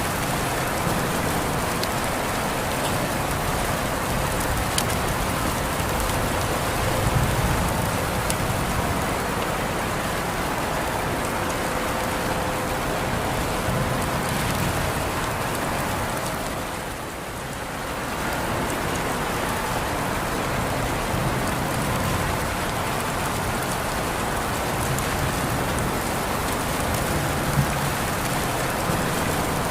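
Steady rain falling, with scattered single drops ticking sharply over the even hiss. The rain briefly softens a little past halfway, then returns to its steady level.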